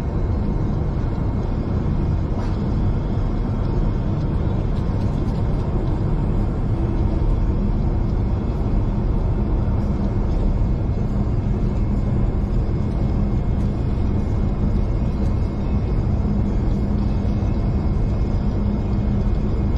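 V/Line diesel passenger train running, heard from inside the carriage: a steady, even rumble with a constant low drone.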